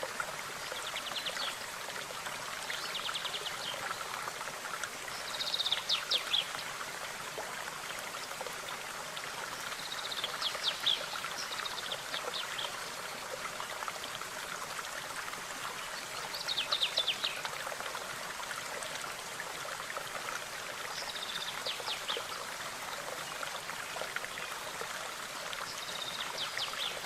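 A stream running steadily, with a songbird giving short, fast trills every few seconds; the loudest trills come about 6, 11 and 17 seconds in.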